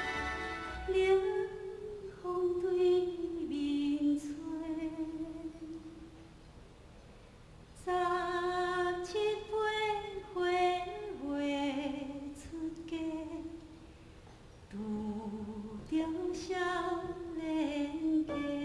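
A woman singing a slow melody solo, in three long phrases with short pauses between them.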